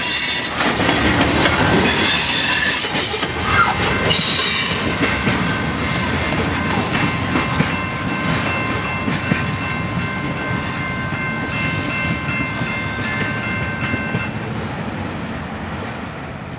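A freight train of tank cars rolling past, wheels clattering on the rails with sharp flange squeals in the first few seconds. A steady high squeal holds for several seconds in the middle, and the train noise fades as the cars recede.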